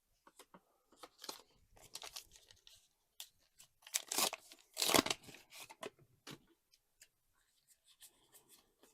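Trading card booster pack being torn open, its wrapper crinkling, with the cards rustling and clicking as they are handled. The loudest tearing comes about halfway through, in two short bursts.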